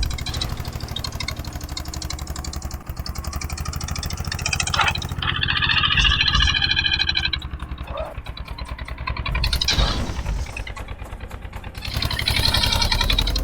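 Eicher 241 tractor's single-cylinder diesel engine running, its firing pulses coming in an even, rapid beat. For about two seconds near the middle a higher-pitched tonal sound rises over it.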